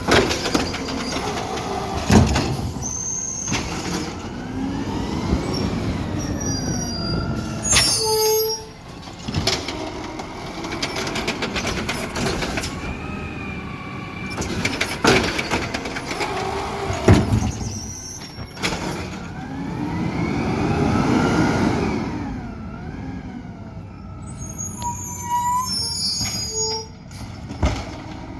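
Garbage truck working: the diesel engine revs up and falls back again and again, with sharp metal bangs and clanks and brief high brake or hydraulic squeals.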